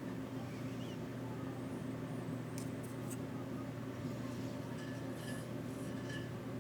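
A steady low hum, with a few faint light clicks about two and a half to three seconds in.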